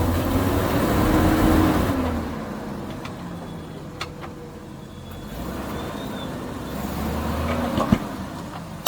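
Nissan Y62 Patrol's V8 engine pulling under load while the 4WD crawls over rocks, revs rising and falling, easing off and building again, with a few sharp knocks. The drivetrain sounds bad but is still driving.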